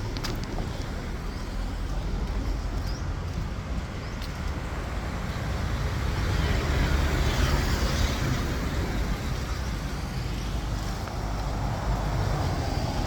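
Street traffic noise, a steady hum of road vehicles that swells as one passes about halfway through.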